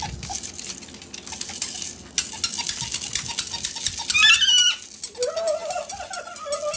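Pet parrot clicking and clattering at a hard toy in quick, irregular taps. A short wavering squawk comes about four seconds in, then a long wavering call that holds its pitch from about five seconds.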